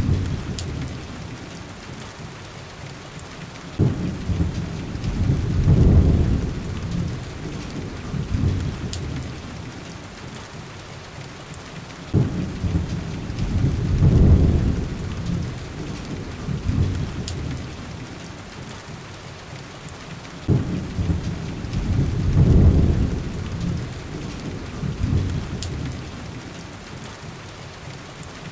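Steady heavy rain with low rolling thunder rumbles about every eight seconds, three in all. Each rumble starts suddenly, swells and then fades back into the rain.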